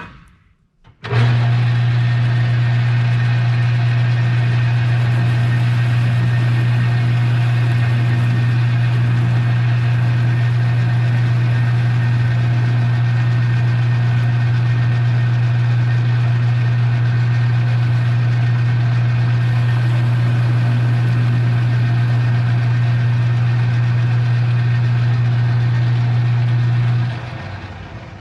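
Metal lathe running with a steady motor hum while a bolt head is faced flat. It starts about a second in and winds down a second or so before the end.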